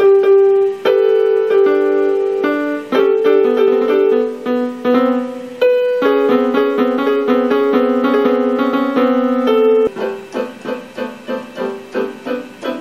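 Piano or keyboard music: a simple melody of held notes, changing about ten seconds in to short, evenly repeated notes.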